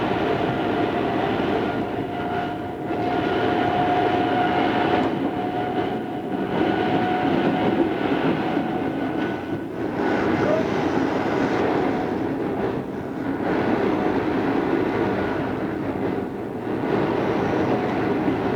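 Odakyu 2600 series electric train running, heard on an old cassette-tape recording. The wheels and motors make a continuous noise with rail-joint clatter, and a thin steady whine is heard for the first several seconds.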